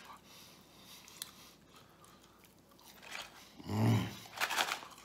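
Close-mouthed chewing of crispy Arby's curly fries: faint wet mouth clicks, then a brief low hummed grunt about four seconds in, followed by a few crunching chews.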